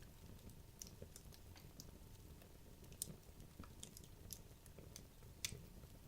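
Wood logs burning in a fireplace, crackling: irregular sharp pops and snaps, the loudest about three seconds in and near the end, over a low steady rumble of the flames.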